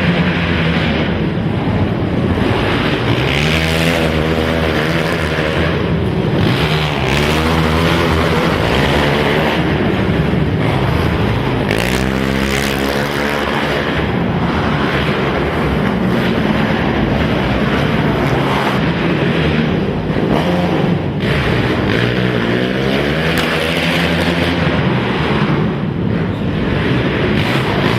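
Several racing quad (ATV) engines revving hard together, their pitch climbing and dropping again and again as the riders accelerate and back off around the track.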